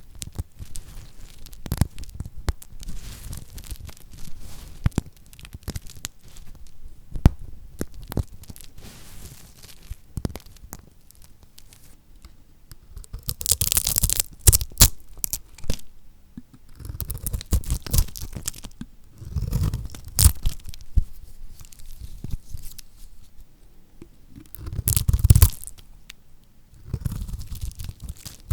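A knife cutting through bars of lacquered soap, the hard glossy coating cracking with a crisp crunch. Many small crackles and clicks run through it, with four louder crunching cuts in the second half.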